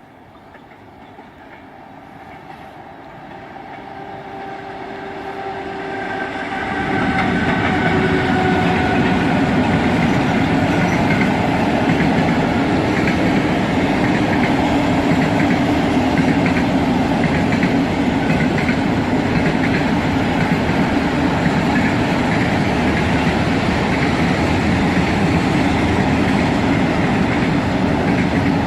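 Freight train approaching and passing: a rising rumble with a faint steady whine for about seven seconds, then the loud, even rush and clatter of the wagons rolling past on the track.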